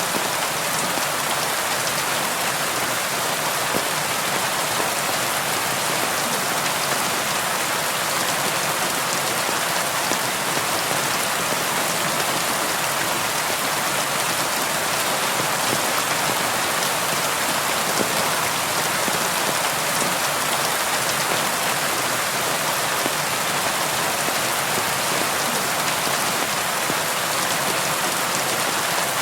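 Steady rain falling on window glass: an even hiss of rain with scattered individual drops tapping.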